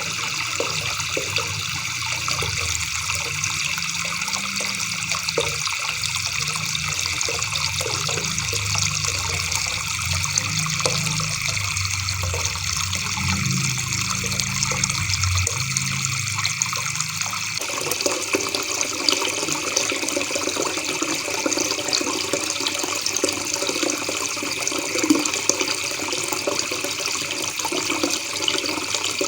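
River water babbling and trickling in a steady, unbroken rush. About two-thirds of the way through, the deep rumble drops out and the sound turns brighter.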